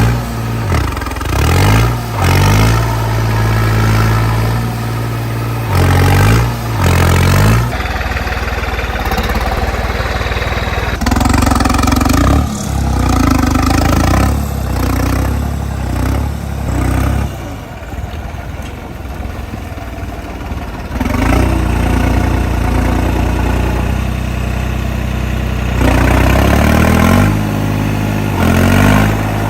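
Tractor's diesel engine running and revving up and down several times, dropping back to a lower, quieter note for a few seconds in the middle.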